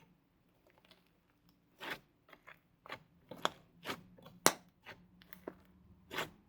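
Slime being handled by hand, giving a run of sharp, irregular pops and clicks, about a dozen, the loudest about halfway through.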